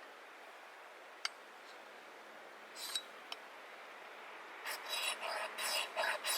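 Rhythmic rasping strokes, about three a second, begin about two-thirds of the way in, after a couple of faint clicks and a short scrape over a steady hiss.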